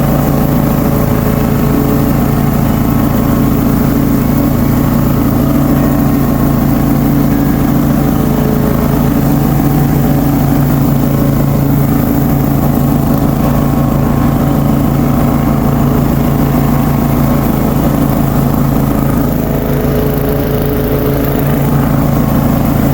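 Ride-on lawn mower's engine running at a steady speed, a constant drone that does not change.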